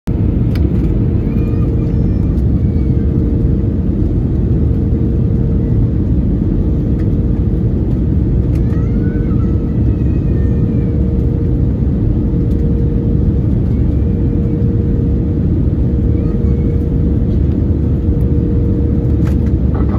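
Airbus A320neo cabin noise on approach: a loud, steady rumble of engines and airflow with a constant low hum through it.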